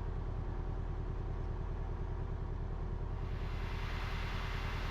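Cessna 172RG's four-cylinder Lycoming engine and propeller idling steadily with an even pulse, while the airplane holds on the ground before takeoff. A hiss comes in about three seconds in.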